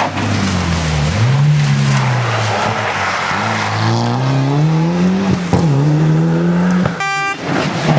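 World Rally Car's turbocharged four-cylinder engine accelerating hard through the gears, its pitch climbing and dropping back at each shift. The sound breaks off briefly about seven seconds in.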